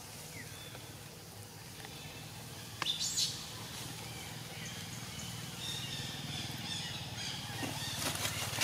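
Birds chirping in the surrounding foliage, with a brief sharp sound about three seconds in and a louder, short noisy burst near the end.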